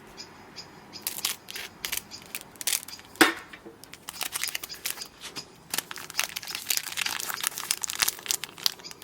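Foil wrapper of a Pokémon booster pack being crinkled and torn open: scattered crackles at first, then a dense run of crinkling through the second half, with one sharp tap about three seconds in.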